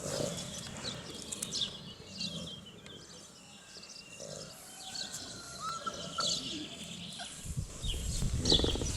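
Shar Pei puppies giving short, high-pitched squeaks and whimpers while they play, with light scuffling.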